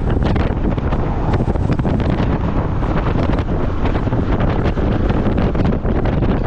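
Wind buffeting the microphone on a moving motorcycle taxi, a loud, steady rushing with constant irregular thumps. The motorbike and road noise run beneath it.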